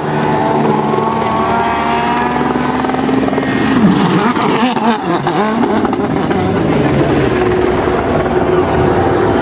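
A World Rally Car's 1.6-litre turbocharged engine at high revs, its pitch climbing over the first few seconds, swooping down and back up about four to five seconds in, then holding steady.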